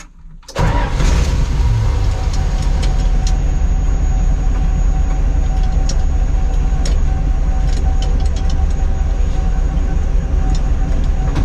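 Tucker Sno-Cat engine catching about half a second in and then running steadily, with a few light clicks over it.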